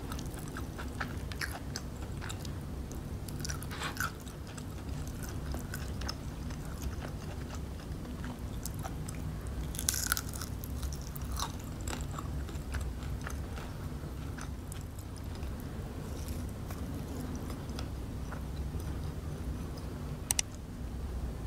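Close-miked chewing and crunching of crispy fried chicken, with many small crackles and mouth clicks. A louder crunchy bite comes about ten seconds in, and a sharp click near the end.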